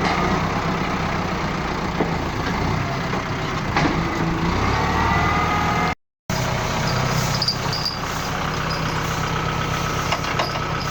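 Heavy diesel engine of Kubota farm machinery running steadily. The sound cuts out completely for a moment about six seconds in, then the engine continues.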